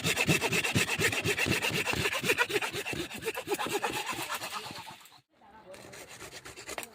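Fast, even rasping strokes, about eight to ten a second, from working timur (Sichuan pepper) branches during harvesting; they stop about five seconds in, leaving a quieter, patchy scraping.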